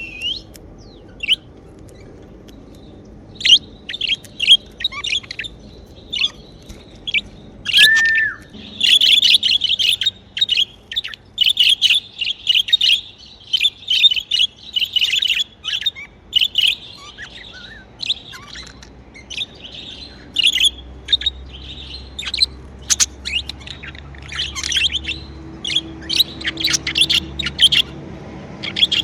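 Pet budgerigars chirping and chattering in quick runs of short, high chirps. The chirps are sparse for the first few seconds, then come almost without pause, with one clear whistled note about eight seconds in.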